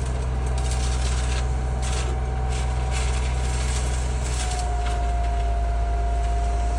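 Excavator's diesel engine running steadily with a droning note and a steady whine that drops slightly in pitch a little past halfway, with light crunching and rattling on top.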